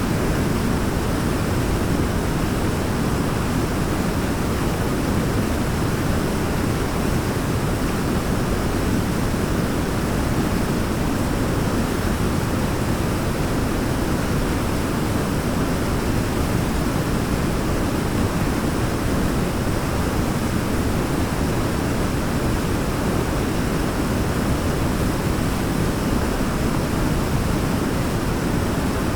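Waterfall: a steady, unbroken rush of falling water, deep-toned, with no change or separate splashes.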